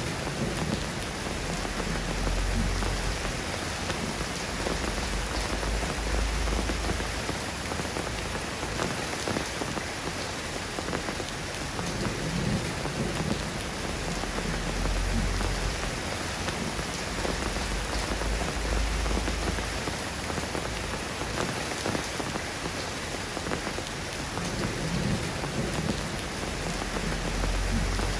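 Steady rain falling, an even hiss with dense drops, and a few slow, low rumbles underneath.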